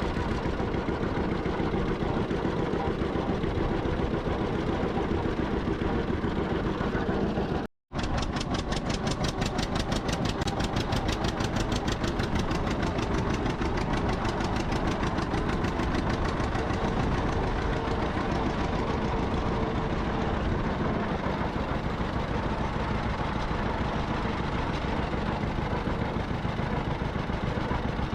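Vintage tractor engine running steadily as the tractor drives along, with a brief cut to silence about 8 seconds in.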